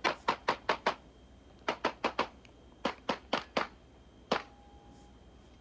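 Pistol shots fired in quick strings: about five rapid shots, then four, then five, then one last shot followed by a brief ringing tone.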